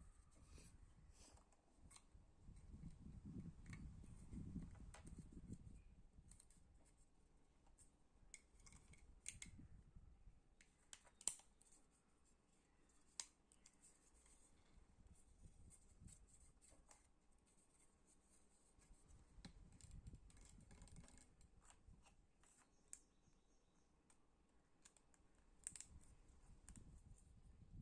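Faint, scattered clicks and scrapes of small hard plastic parts being handled and fitted together, with a sharper click about eleven seconds in and another two seconds later.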